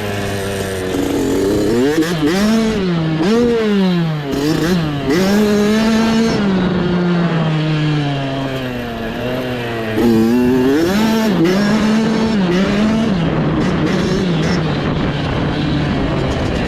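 Small off-road dirt bike engine revving up and down in quick swells while being ridden over rough trail. Its pitch rises and falls repeatedly, sinks slowly for a few seconds midway, then climbs sharply again about ten seconds in.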